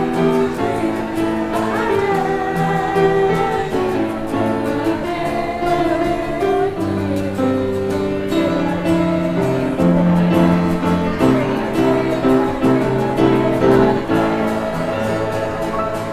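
Church music after the benediction: held chords changing every second or two, with a melody line above them.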